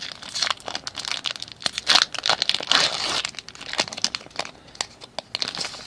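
Foil wrapper of a Pokémon trading card booster pack being torn open and crinkled by hand: a run of sharp crackles, with louder tearing rustles about two and three seconds in.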